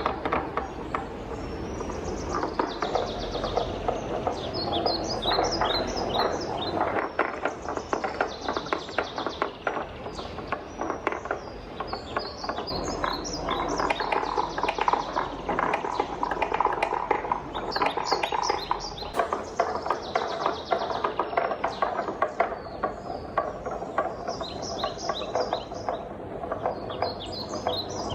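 Wooden balls rolling and clacking down a wooden marble run: a continuous rolling rumble under many quick knocks and rattles as the balls hit the track and one another.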